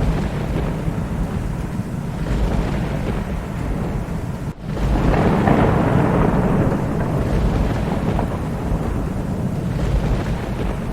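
Steady rain with the low rumble of thunder. About four and a half seconds in, the sound drops away for an instant, then a louder roll of thunder swells up and slowly eases off.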